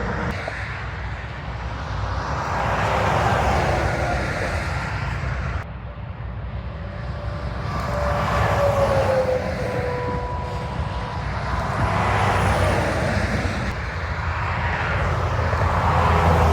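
Highway traffic with heavy trucks passing one after another, each swelling and fading over a few seconds, their tyre whine dropping in pitch as they go by over a steady low rumble.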